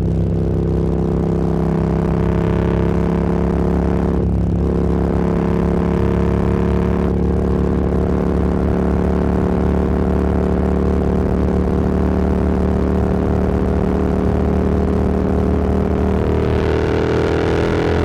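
Motorcycle engine running at a steady cruising speed, with wind rushing past the rider. Near the end the engine note climbs slowly as the bike accelerates.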